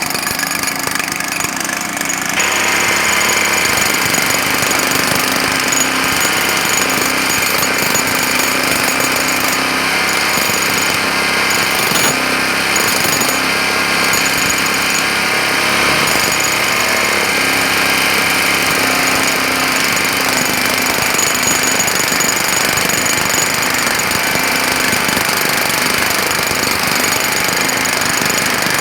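Jackhammer hammering continuously, getting louder and steadier about two seconds in, with steady humming tones underneath.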